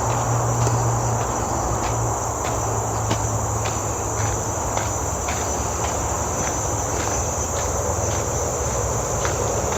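Forest insects making a steady high-pitched drone. Faint regular ticks come about twice a second, and a low hum runs underneath.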